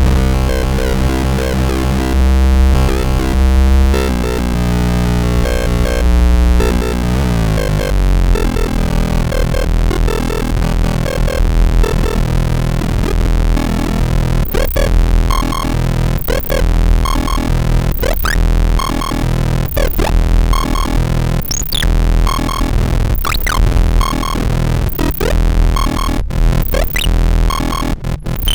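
Live electronic noise music: loud, dense synthesizer drones over heavy low bass, with the texture shifting through a downward glide about a quarter of the way in. In the second half, sharp rising sweeps repeat about every second and three-quarters.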